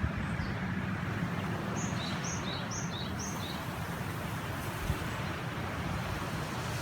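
Steady rushing of a mountain river with wind rumbling on the microphone. About two seconds in, a bird gives a quick run of four or five short high chirps.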